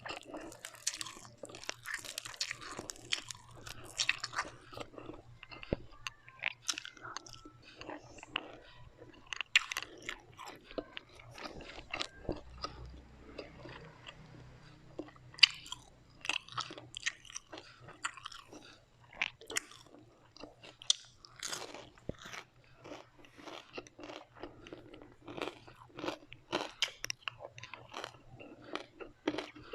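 Close-miked chewing and crunching of crisp fried food, with many sharp bites and crunches and a brief softer spell of chewing midway.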